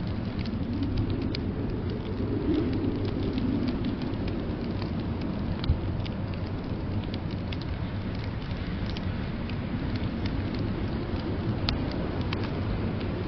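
Wood fire crackling in a fireplace, many small scattered pops with one sharper pop about six seconds in, over a steady low rumble of blizzard wind.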